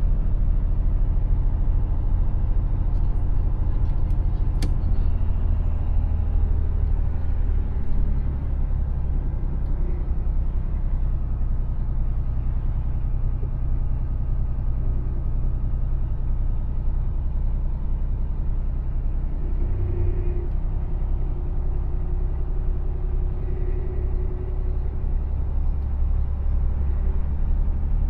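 Mercedes Actros truck's diesel engine and road noise, a steady low drone, with one sharp click about four and a half seconds in.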